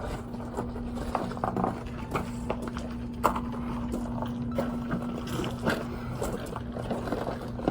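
Irregular clinks and knocks of a truck wheel being mounted on its hub and lug nuts being handled, over a steady low hum.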